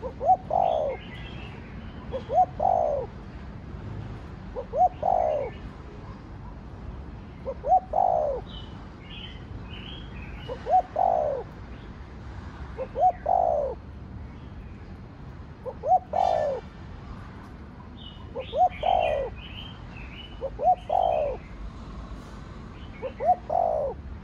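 Spotted dove cooing, its phrase of two short notes and a longer falling note repeated about every two and a half seconds. Small birds chirp faintly in the background.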